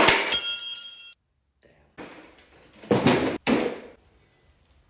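Metal struck with a sharp clang that rings for about a second and cuts off suddenly. Then come three short, harsh bursts of metalwork on the engine cases.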